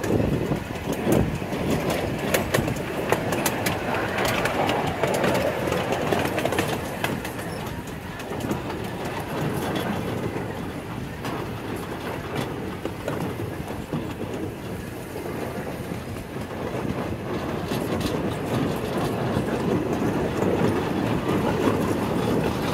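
Miniature ride-on railroad train running, heard from an open passenger car: a steady rumble of wheels on the track with scattered sharp clicks.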